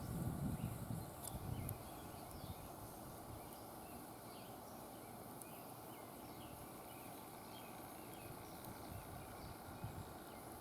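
Quiet outdoor ambience with faint scattered bird chirps over a low steady background noise. A louder low rumble in the first second or two dies away.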